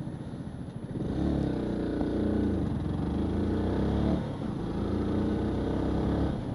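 Yamaha YZF-R125's single-cylinder four-stroke engine pulling away and accelerating, getting louder about a second in. There is a brief dip in level just after four seconds, then the engine picks up again.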